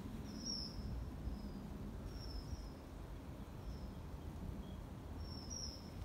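Outdoor ambience: a steady low rumble with short, high bird chirps every second or so, some in quick pairs.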